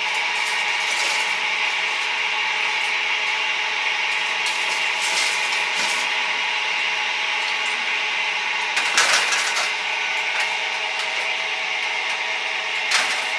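A steady hiss of kitchen noise with a few sharp clatters of utensils or metal, the loudest about nine seconds in and another near the end.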